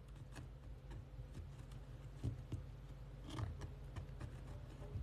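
Faint, irregular ticking and tapping from inside a wall, unexplained, over a low steady hum.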